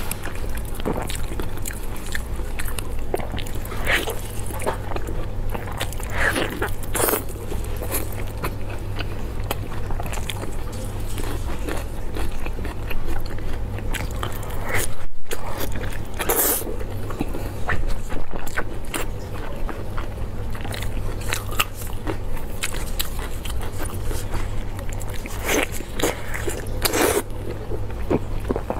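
Close-miked eating of fatty braised pork belly: wet biting, chewing and lip smacks at irregular intervals over a steady low hum, with a brief cut about halfway through.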